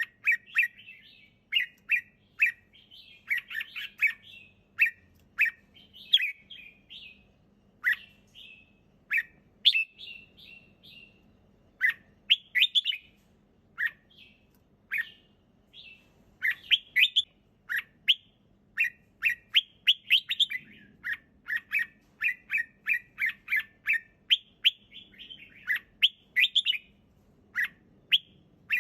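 Red-whiskered bulbul singing: short, quick whistled phrases of a few notes each, repeated with brief pauses.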